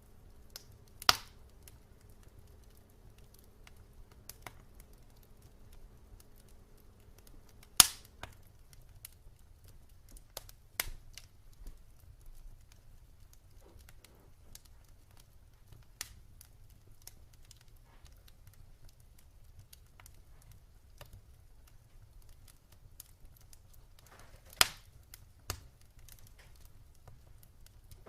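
Wood fire burning in a fireplace: scattered pops and crackles over a faint low rumble, with sharp loud pops about a second in, about eight seconds in, and near the end.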